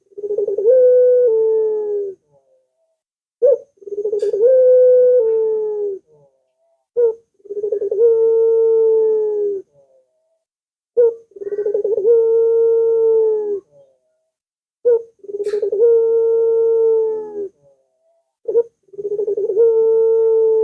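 Ringneck dove (burung puter) cooing, used as a lure call to set other puter doves cooing. It calls about six times, one call every four seconds or so. Each call is a short clipped note followed by a long, drawn-out coo.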